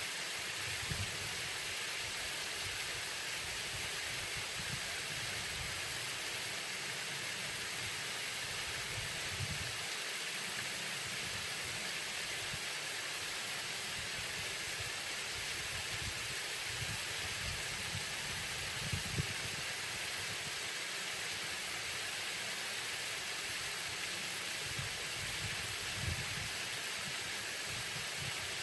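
Waterfall: a steady rush of falling and splashing water, with low rumbles now and then.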